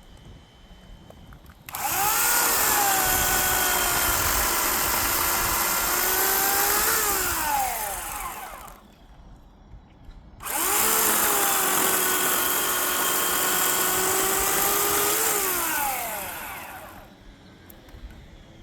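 Electric chainsaw run twice for about six seconds each, cutting wood. Each time the motor spins up to a steady whine, rises briefly near the end and winds down.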